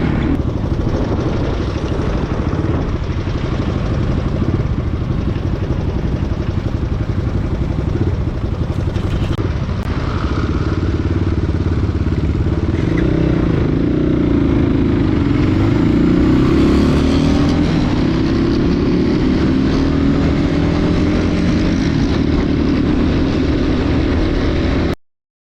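CX250SE dirt bike's engine running as it is ridden, its pitch rising as it accelerates a couple of times in the second half. The sound cuts off suddenly near the end.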